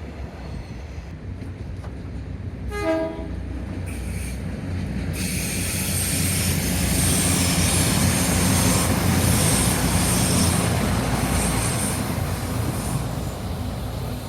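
A Taiwan Railways DR1000 diesel railcar gives a short horn blast about three seconds in, then passes close by. Its running noise grows and fades, with a thin high-pitched wheel squeal as it takes the curve.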